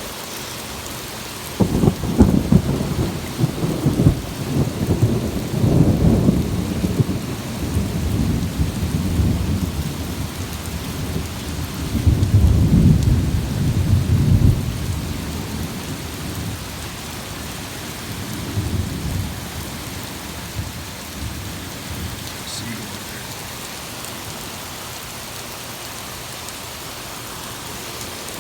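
Thunder from a storm right overhead breaks suddenly about a second and a half in, with crackling, and rolls on as a long low rumble. It swells again midway and dies away over a steady hiss of heavy rain.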